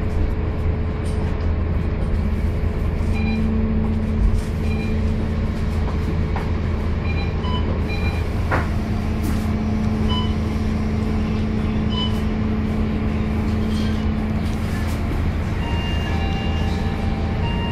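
Scania K230UB city bus heard from inside the cabin while under way: a steady diesel engine drone with a higher whine over it, and short squeaks and clicks from the bodywork and fittings.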